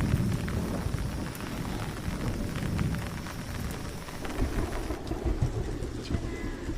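Heavy rain falling, with a continuous low rumble underneath and scattered drop ticks throughout.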